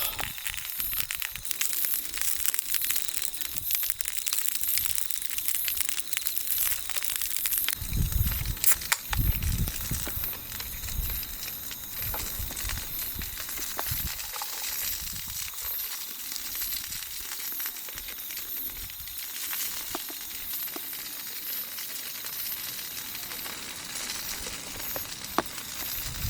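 Wood bonfire crackling with many small pops over a steady high chirring of insects, with a few louder low thumps about eight to ten seconds in.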